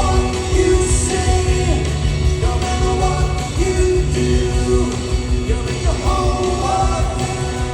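Rock band playing live: electric guitars over bass and drums, with a sustained melodic line gliding between notes on top.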